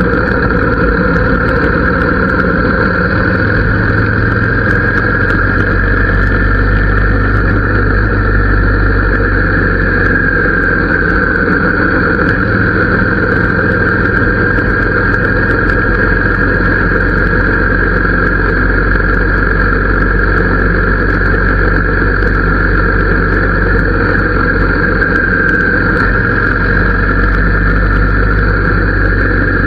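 Harley-Davidson V-twin engine running steadily through its exhaust, its pitch holding almost constant with no revving.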